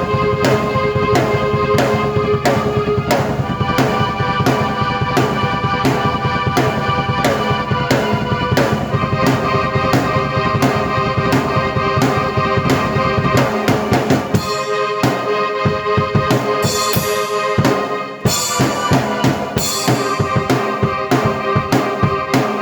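Drum kit and keyboard playing an instrumental piece together: steady kick and snare strokes under sustained keyboard chords. About fourteen seconds in the bass drops out for a short break, and the drums come back fuller with cymbals a few seconds later.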